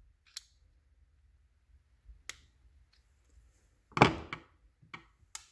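Small parts being handled at a workbench while refitting a piece onto a fuel injector: a few light clicks, then a louder clatter about four seconds in as something hard is set down.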